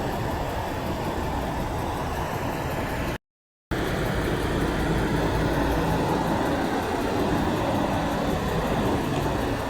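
Steady road traffic noise from passing vehicles, with engines and tyres running. No horn is heard. The sound cuts out completely for about half a second around three seconds in.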